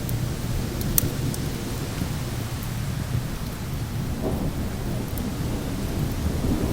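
Steady low rumble of thunder and wind with a few sharp crackles and pops from a wood fire, the loudest pop about a second in.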